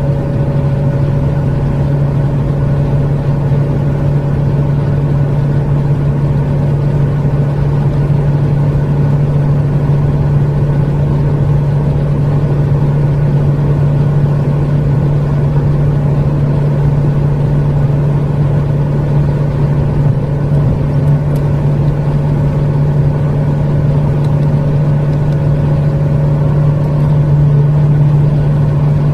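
Renault Megane 2's 1.5 dCi four-cylinder turbodiesel under sustained full-throttle acceleration at high speed in a high gear, a steady engine drone with road and wind noise, growing slightly louder near the end.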